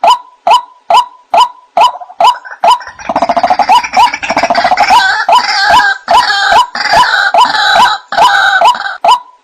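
White-breasted waterhen (ruak-ruak) calling: a fast series of short repeated notes, about two to three a second. From about three seconds in, a louder, harsher chattering chorus joins them until near the end. This is the kind of call recording played as a lure to draw waterhens in.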